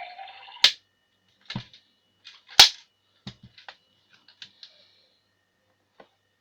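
Irregular sharp clicks and knocks of hard plastic, about nine in all with the loudest about two and a half seconds in, as a Fisher-Price toy teapot is handled and knocked about.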